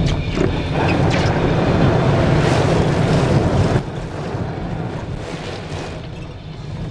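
Ocean surf with wind buffeting the camera microphone, a loud rushing wash that drops off suddenly about halfway through to a quieter wash.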